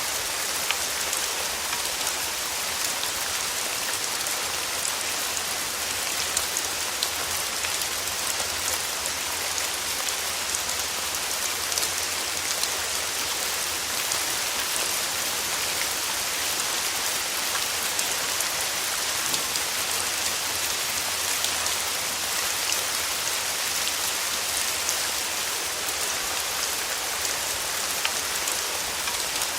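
Steady rain falling, a constant hiss of rain on a surface with many small drop ticks scattered through it.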